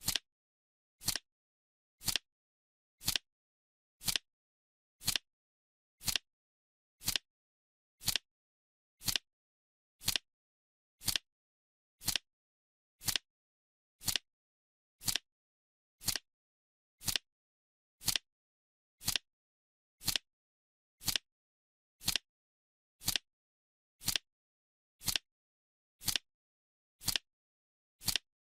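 Clock ticking once a second, a short sharp tick each time with silence in between: a countdown timer's ticking sound.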